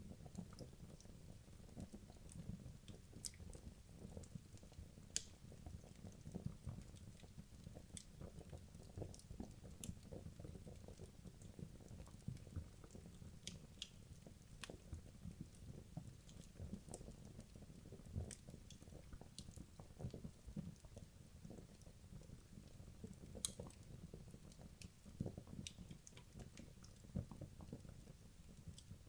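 Wood logs burning in a fireplace: a steady dense crackle with a sharper pop every few seconds.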